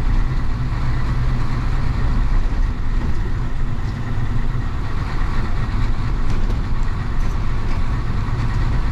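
The 1966 Isuzu BXD30 bonnet bus's DA640 diesel engine running steadily, a low drone that holds even throughout.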